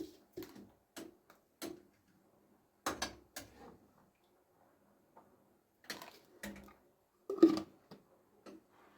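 Dishes being set down one after another, a series of separate light knocks and clinks, the loudest about seven and a half seconds in.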